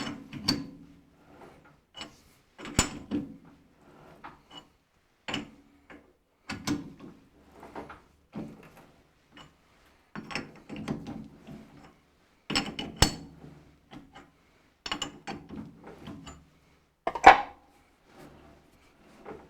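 Thread being tapped by hand on a metal lathe: irregular metallic clicks and clunks every second or so as the chuck is turned by hand and the tap is fed in with the tailstock handwheel. A sharper knock stands out near the end.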